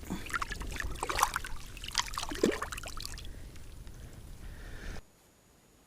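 Water splashing and dribbling in quick, irregular bursts, fading after a few seconds, then cutting off abruptly to near silence near the end.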